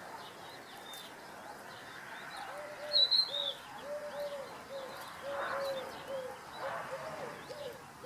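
Birds calling: a run of short, low, arching notes repeating about three times a second from about two and a half seconds in, over scattered high chirps. The loudest is a sharp high chirp about three seconds in.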